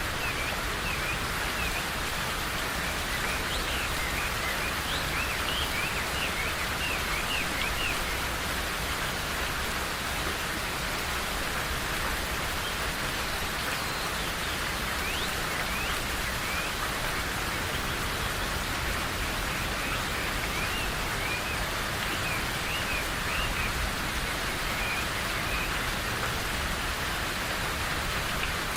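Steady rain falling, with small birds chirping in short calls now and then, most in the first eight seconds and again past the middle.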